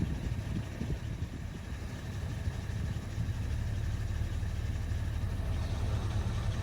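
A vehicle engine idling with a low, steady hum, mixed with low gusty rumble of wind on the microphone in the first seconds.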